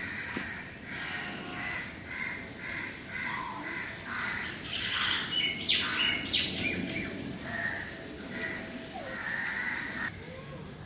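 Birds calling outdoors: a run of short repeated calls, about two a second, with a brief burst of sharper, higher chirps around the middle.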